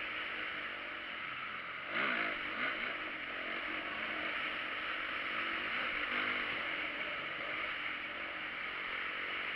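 Motocross bike engines revving, the pitch rising and falling, with a sudden louder burst of revs about two seconds in over a steady wash of engine noise.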